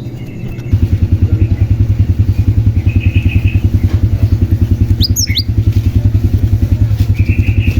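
An engine running with a steady, fast putter starts about a second in and is by far the loudest sound. About five seconds in, a cinereous tit (glatik batu) gives a couple of quick rising chirps over it.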